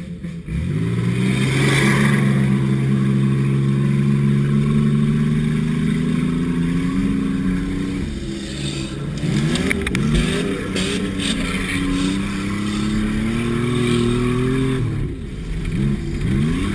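Car engine heard from inside the cabin, revving up about half a second in and holding at high revs for several seconds, then rising and falling again and again as the throttle is worked on rough ground. A few sharp knocks about ten seconds in.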